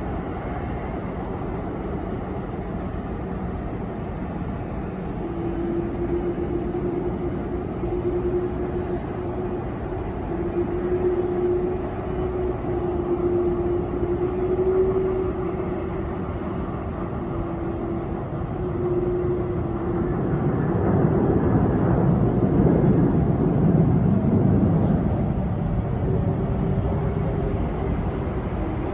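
Jet airliner engines running, a steady rumble with a held hum that swells louder about twenty seconds in.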